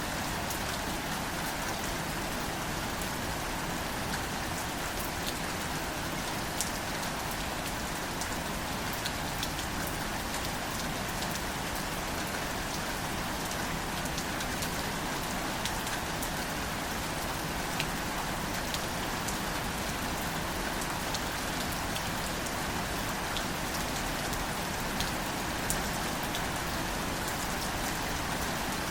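Steady rain falling on plants and the ground, an even hiss with many small scattered drop taps.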